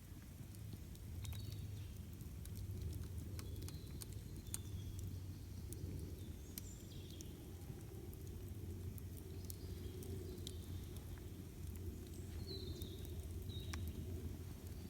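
Campfire burning, with frequent sharp crackles and pops over a low steady rumble; short bird chirps come now and then.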